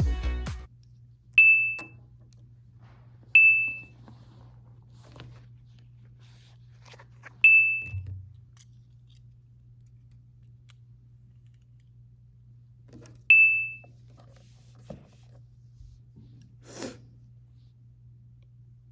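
Short, high electronic beeps, four of them at irregular intervals, over a steady low room hum in a library, with scattered soft clicks and a brief noise near the end. A pop song cuts off at the very start.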